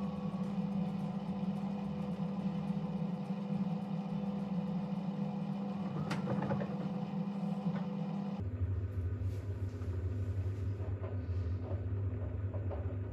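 Bosch WAX32GH1 washing machine running with a steady motor hum as the drum turns a load of towels to balance them for spin, with a single clunk about six seconds in. About eight seconds in, the hum changes abruptly to a lower, deeper drone as the intermediate spin begins.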